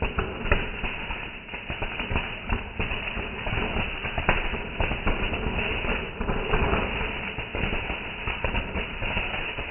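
Fireworks going off: a dense, irregular run of bangs and crackling pops over a steady rumble.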